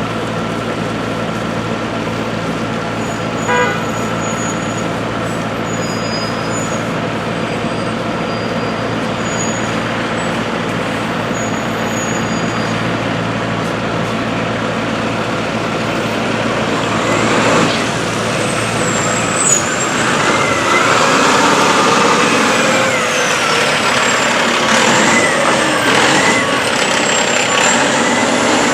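Fire truck's diesel engine idling with a steady hum, with a short toot a few seconds in. About two-thirds of the way through the deep hum drops away and wavering high-pitched squeals and hiss come in as a truck moves.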